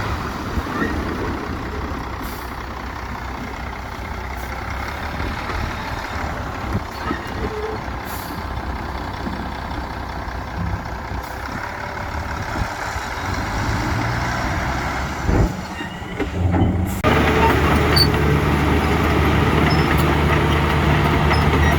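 Heavy diesel construction machinery working: a rough mix of engine noise and rumble with a thump about three-quarters of the way through, after which a nearby diesel engine comes in louder and steadier.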